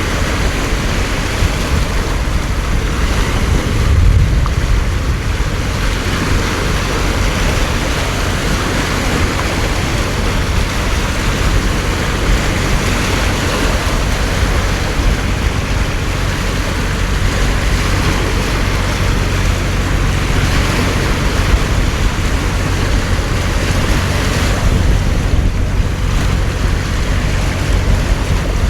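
Heavy torrential rain pouring down as a steady roar of noise, with wind buffeting the microphone in a low rumble that surges about four seconds in.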